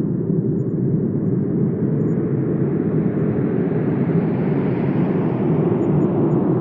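Wind blowing steadily with a low rushing noise; a gust swells the higher hiss over a few seconds and eases near the end.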